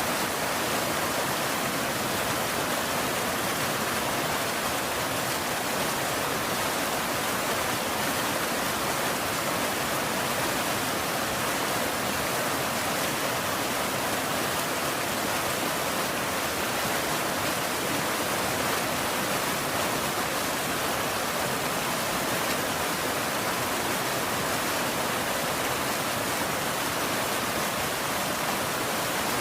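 Steady rain falling, a dense even hiss with no thunder or separate drops standing out.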